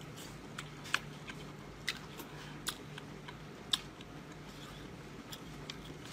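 Close-up chewing of rubbery octopus tentacle: scattered wet mouth clicks and smacks at an uneven pace, over a faint steady low hum.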